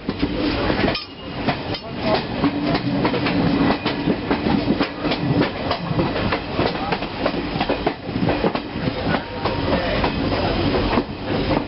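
Passenger express train running past on a curve, its wheels clattering over the rail joints in a dense stream of sharp knocks over a rumble, with a low hum that comes and goes.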